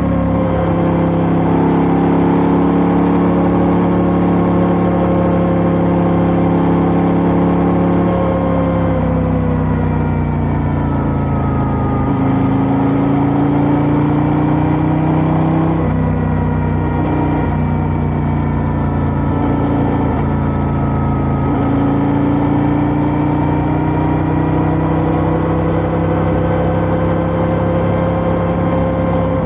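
KTM 890 Duke R's parallel-twin engine through an Austin Racing GP1R aftermarket exhaust, running steadily while riding. The engine note dips and then slowly climbs again a few times with gentle throttle changes.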